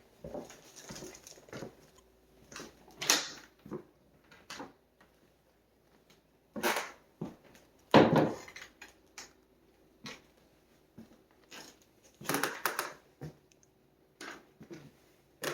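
Irregular knocks and bumps with quiet gaps between them; the loudest come about three seconds in, about eight seconds in, and around twelve and a half seconds in.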